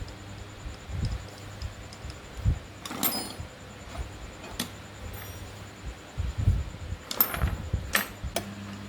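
Metal parts and hand tools being handled: scattered clinks and knocks, with a cluster of sharper clicks a little after three seconds and again between about seven and eight and a half seconds, over a faint steady hum.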